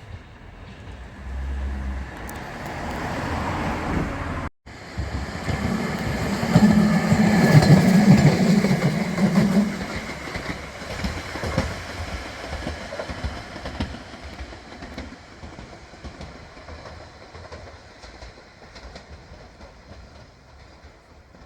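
A train passing on rail track: it grows louder over the first several seconds, is loudest about eight seconds in, then slowly fades away.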